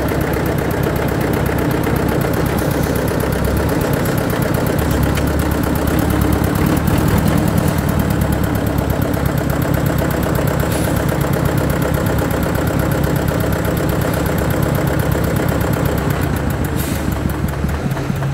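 Eicher tractor's air-cooled diesel engine running steadily, its exhaust note loud throughout, a little louder in the middle and easing off at the very end.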